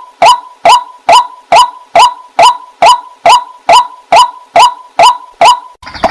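Water hen calling: a loud, sharp note repeated evenly about twice a second. After a short pause near the end, a denser, different calling begins.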